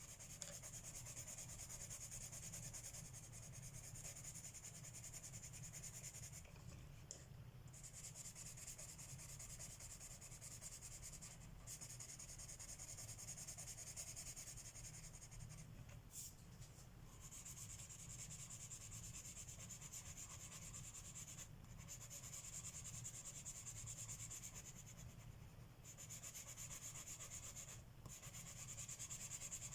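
Coloured pencil shading on paper: a faint, steady scratchy hiss of back-and-forth strokes, broken by short pauses every few seconds as the pencil lifts.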